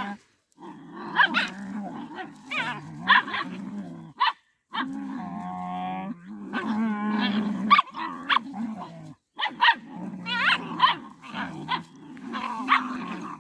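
Dogs fighting: continuous low growling and snarling, with sharp barks and yelps breaking through, cut off briefly twice.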